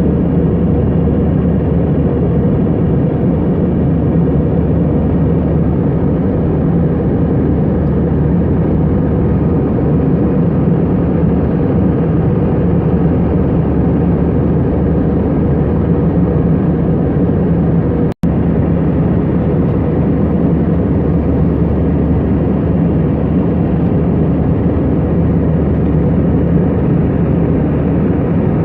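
Steady cabin noise of an Airbus A320 in flight: engine drone and airflow heard from a passenger seat, with a low hum and faint steady tones. The sound cuts out for a split second about two-thirds of the way through.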